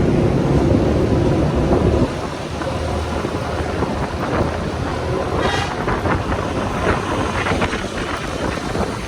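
Motorcycle engine running under throttle, then easing off about two seconds in, leaving wind and road noise on the microphone. A brief higher-pitched sound comes a little past the middle.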